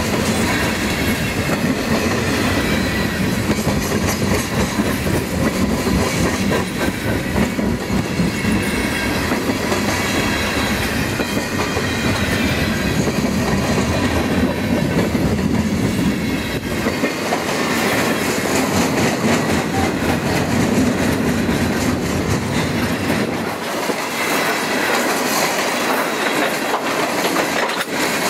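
Freight train rolling past close by, tank cars followed by boxcars: a steady rumble and clatter of steel wheels over the rail joints. The deep rumble thins out over the last third.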